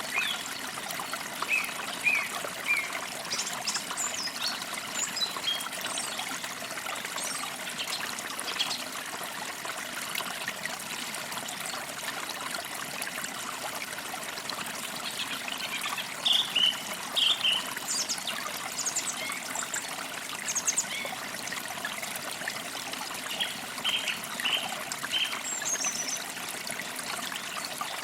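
A small forest creek trickling and babbling over stones, with birds chirping in short scattered calls over it.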